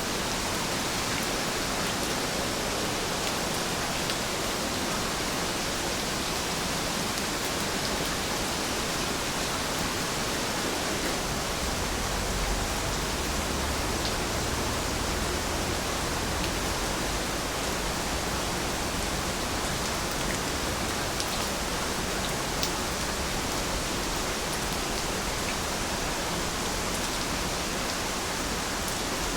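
Steady rain falling, a dense even hiss of many drops. A low rumble swells briefly about halfway through.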